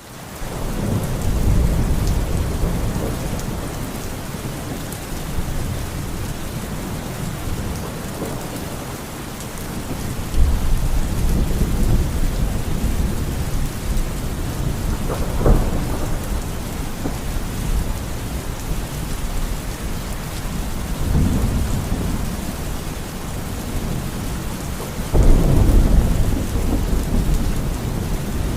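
Steady heavy rain with repeated low rolls of thunder, fading in at the start; one sharper thunderclap comes about halfway through.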